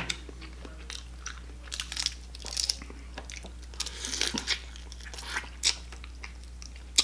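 Biting and chewing Dungeness crab: a scattered run of short crunches, clicks and wet mouth smacks.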